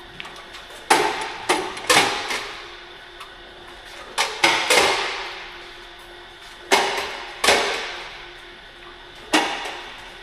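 A series of sharp knocks or clanks at irregular intervals, some in quick pairs, each ringing and fading over about a second.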